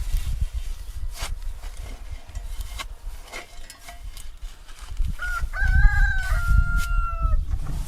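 A rooster crows once, starting about five seconds in: a call of about two seconds that rises, holds and trails off slightly. Wind rumbles on the microphone, with a few scattered knocks.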